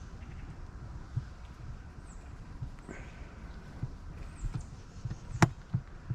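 A deer's hooves stepping in the woods: soft, irregular low thuds, with one sharp snap about five seconds in. Faint high chirps of small birds are heard now and then.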